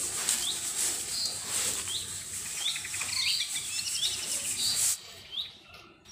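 A small bird chirping over and over, short rising chirps spaced about half a second to a second apart, over a steady hiss that cuts off suddenly about five seconds in.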